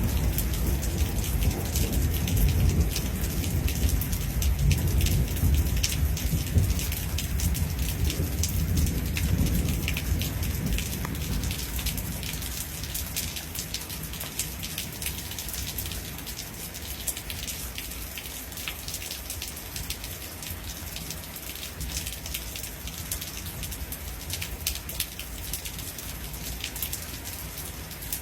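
Heavy rain pattering steadily on surfaces, with a low rolling rumble of thunder at the start that dies away over the first dozen seconds or so, leaving the rain alone.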